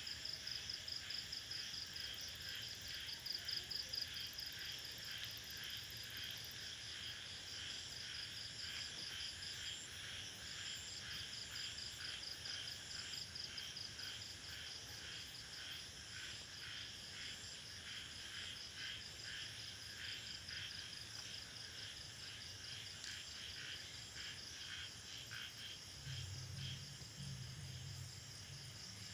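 Chorus of crickets chirping in fast, even pulses, several high trills overlapping. A low hum joins near the end.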